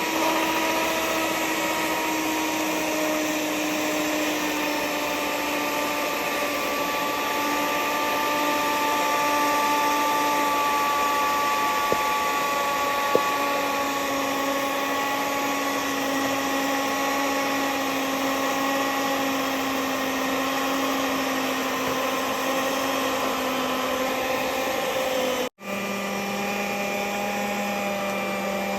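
Electric mixer running steadily through cake batter, a motor whine whose pitch drifts slowly lower. Near the end it cuts out for an instant and resumes at a lower pitch.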